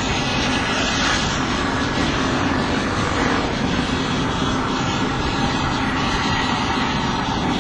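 Airbus A380's four turbofan engines running, a loud, steady rush of jet noise with a low hum under it.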